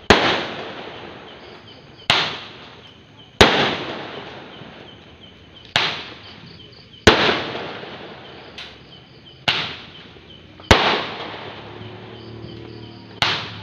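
Fireworks going off: a series of about nine sharp bangs, one every one to two and a half seconds, each trailing off into a fading echo.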